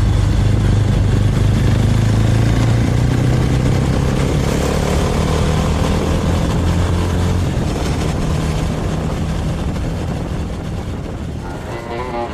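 Suzuki Thunder GSX250 motorcycle engine running at a steady cruise with wind noise, easing off a little near the end.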